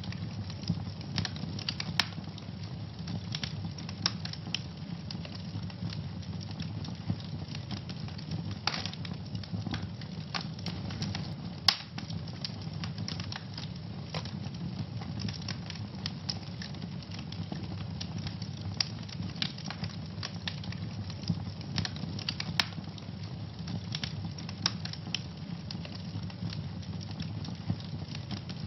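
Wood fire in a fireplace burning with dense, continual crackling and a low steady rush of the flames, with a few sharper pops about 2, 12 and 22 seconds in.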